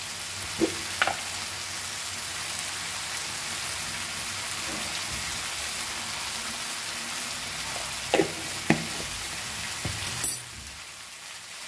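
Sliced onions and capsicum with spice powders sizzling steadily in oil in a nonstick kadai. A few light knocks come near the start and again about eight seconds in, and the sizzle turns quieter shortly after ten seconds.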